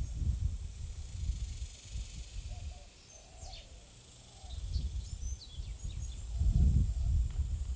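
Wind buffeting the microphone in uneven gusts of low rumble, strongest near the end, with small birds giving many short, high chirps throughout.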